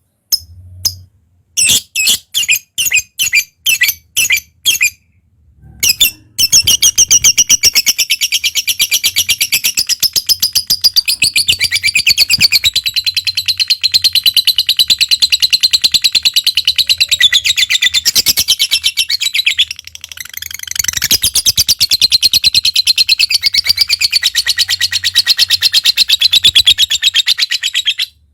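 Lovebird calling: several separate sharp, high chirps, then a long, very rapid chattering trill (the "ngekek" call) that breaks off briefly about two-thirds of the way through and starts again.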